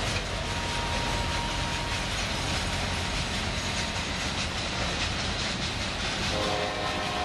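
Freight cars of a Union Pacific mixed freight train rolling past, steel wheels rumbling and clattering steadily on the rails. Near the end a train horn starts sounding a steady multi-note chord over the rolling noise.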